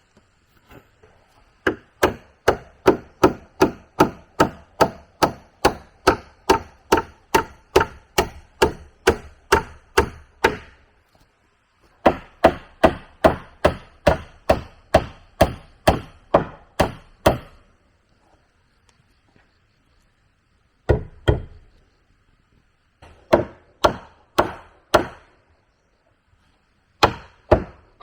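A tool striking wood over and over at a steady pace of about two to three blows a second, in two long runs and then a few short groups with pauses between.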